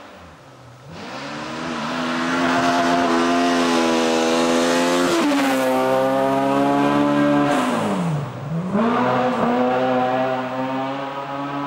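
Toyota Corolla GT rally car engine at full throttle, growing louder as the car comes closer. The revs climb, drop at an upshift about five seconds in, fall away briefly near eight seconds as the driver lifts, then climb again.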